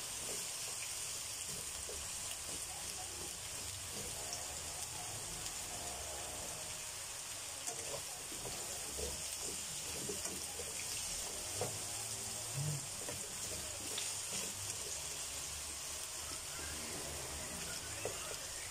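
Potato and carrot chunks sizzling steadily as they fry in a pan to brown, with a few light knocks of the spatula as they are stirred.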